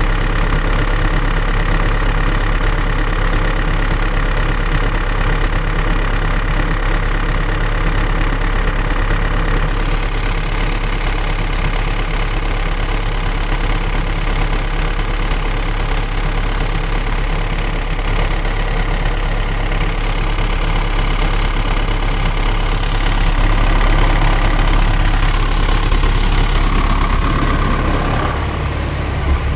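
Samsung excavator's diesel engine idling steadily, run to warm up and show where a motor oil leak on the block is coming from.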